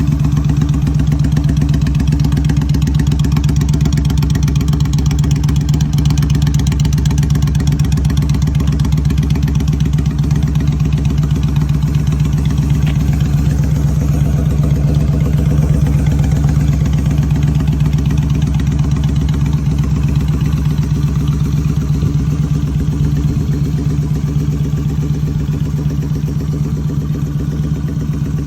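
Motorcycle engine idling steadily, its pitch and level holding even throughout.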